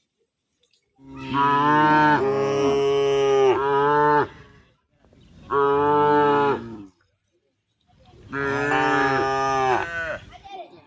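Cow mooing: three long, loud calls with short pauses between, the first lasting about three seconds.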